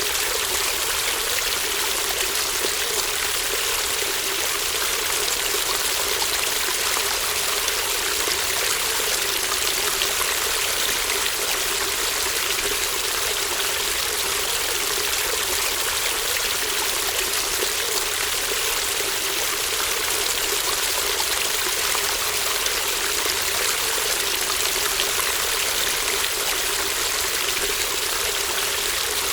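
A small brook babbling and trickling steadily, an even rush of running water without a break.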